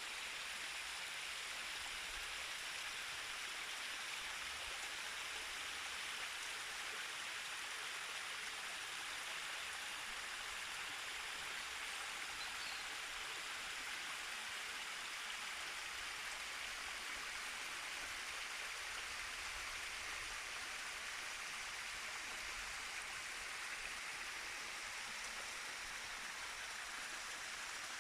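Swollen mountain stream rushing, a steady, unbroken wash of water noise.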